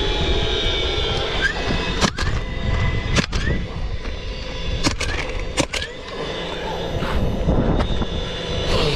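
Four sharp nail-gun shots, two about a second apart, then two more close together a couple of seconds later, over the steady drone of an aircraft passing overhead.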